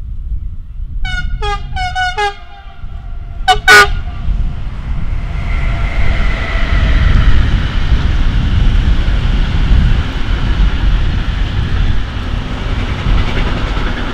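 Vectron locomotive's horn playing a quick run of short melodic notes, then two loud short blasts. Then the freight train rumbles past at close range, its wagons of truck trailers rolling steadily on the rails.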